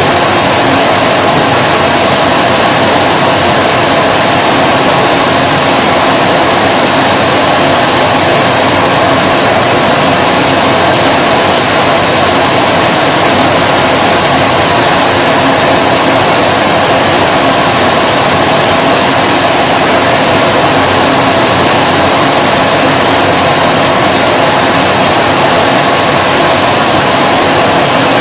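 Vacuum cleaner running steadily at one speed: a loud, even rush of air with a few steady tones in it.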